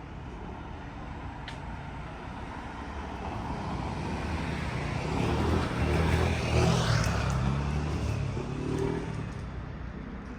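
A motor vehicle approaches along the street, passes close about six to seven seconds in, and fades away, its engine and tyre noise rising and then dying down.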